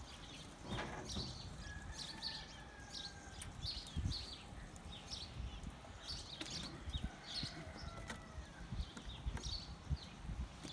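Small birds chirping in quick repeated short calls, with a few low thumps close by.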